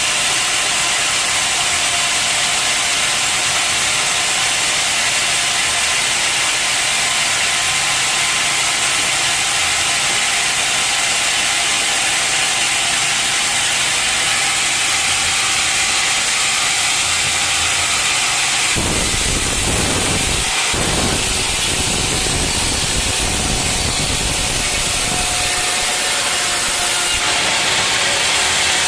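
Sawmill saw running steadily through a teak log, with a loud hiss and a steady whine. About two-thirds of the way in, a heavy low rumble joins it for several seconds.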